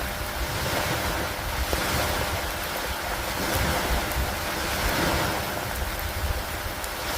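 Steady rain falling, with a low rumble of wind and lake water underneath, swelling and easing every couple of seconds.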